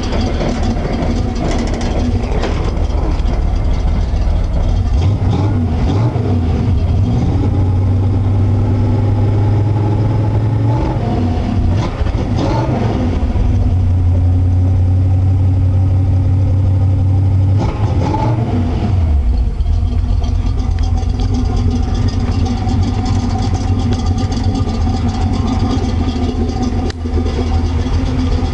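1971 Chevy pickup's 355 small-block V8 idling, revved up twice and held at higher engine speed for about five seconds each time, then settling back to a steady idle.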